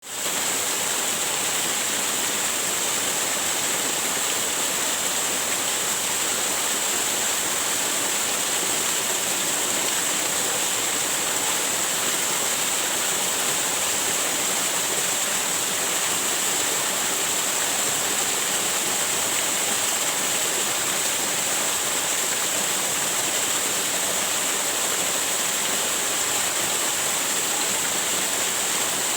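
Waterfall rushing steadily: a constant, unbroken roar of falling water with a strong high hiss.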